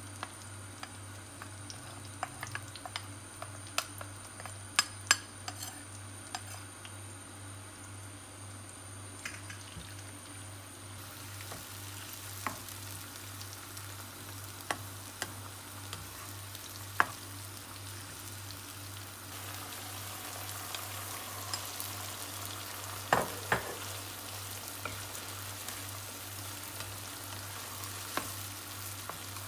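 Chopped kimchi sizzling as it fries in oil in a nonstick wok, with a plastic spatula tapping and scraping against the pan. The sizzle grows louder about two-thirds of the way through, as seafood goes into the wok.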